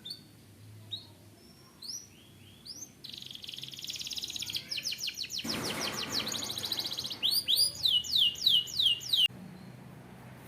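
Domestic canary singing: a few separate rising chirps, then a fast rolling trill that turns harsher in the middle, then a run of loud falling whistled notes, about five a second, that cuts off abruptly near the end.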